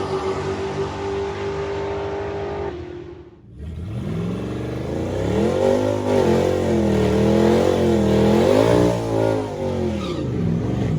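Drag car V8 engines: one held at steady revs, then after a brief drop another revs up and runs hard with its pitch wavering up and down, falling off near the end.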